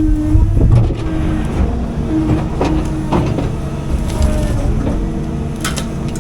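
CAT 310 excavator's diesel engine running steadily under load, its pitch wavering, with several sharp cracks of wood breaking.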